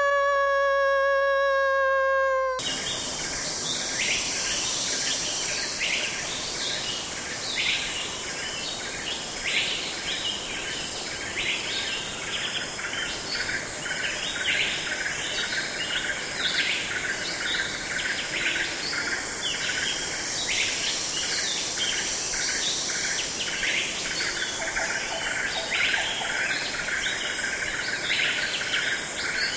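A wolf howling, one long call falling slightly in pitch, which ends about two and a half seconds in. Then a flock of birds calling, a dense chorus of short high chirps over a steady high hiss.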